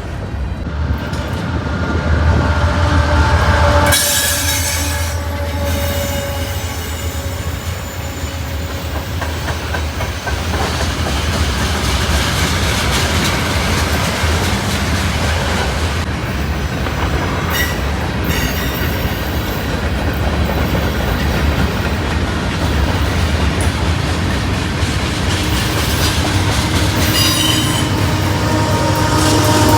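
A train passing close by: a steady low rumble with wheels clattering on the rails and some wheel squeal.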